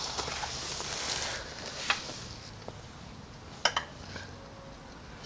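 Oil filter being tightened by hand with a strap wrench: a rustling, scraping rub, then a few sharp clicks, two of them close together a little past halfway.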